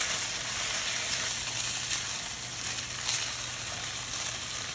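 Chicken strips sizzling steadily in hot oil in a cast-iron wok, with a couple of light clicks of the spatula against the pan.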